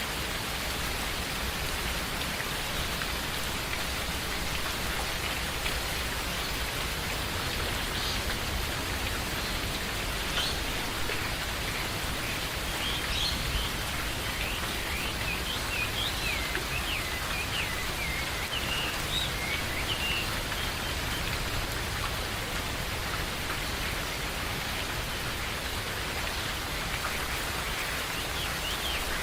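Steady rain falling in a forest, with short bird chirps scattered through the middle and again near the end.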